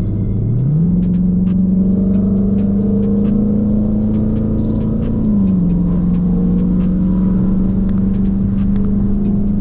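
Dodge Charger's V8 engine heard from inside the car. About a second in it revs up quickly to a much higher pitch, as under hard acceleration or a kickdown. It holds that pitch steadily, then eases back a little about halfway through.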